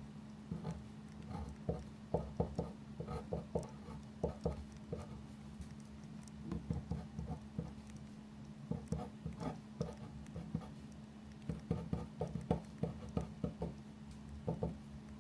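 Pen or pencil writing on paper in quick runs of short scratchy strokes with brief pauses between, over a steady low hum.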